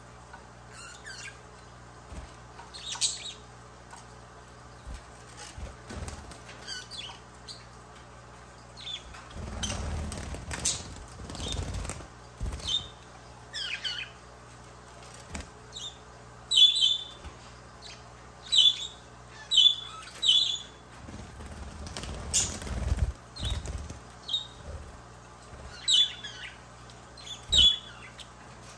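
Budgerigars chirping in short, repeated calls, with two bursts of wing flapping, about ten seconds in and again a little after twenty seconds.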